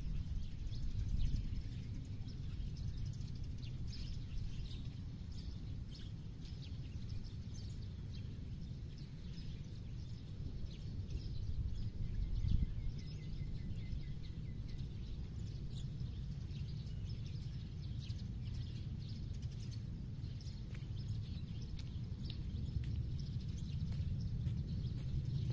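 Countryside ambience: scattered short, faint bird chirps over a steady low rumble, with a brief trill about halfway through.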